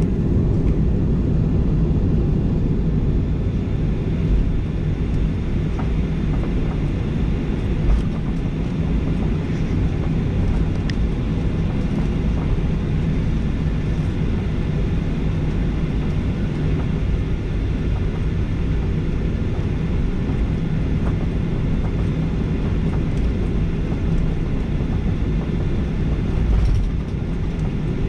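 Cabin noise inside a Boeing 737-800 with its CFM56-7B jet engines running: a loud, steady, deep rumble with a faint low hum, heard through the cabin near the window.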